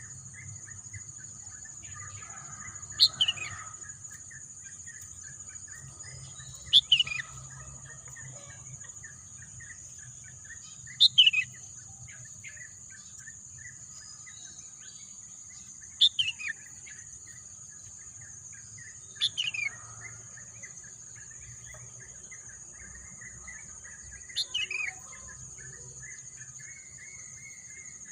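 A bird repeating a short, loud call that falls in pitch, six times at intervals of about four seconds, over a steady high-pitched insect drone and faint fast chirping.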